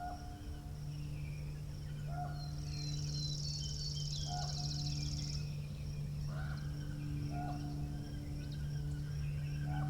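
Birds calling over a steady low hum and wind rumble. A short mid-pitched call repeats about every two seconds, and a high, fast trill comes in about three seconds in and stops a couple of seconds later.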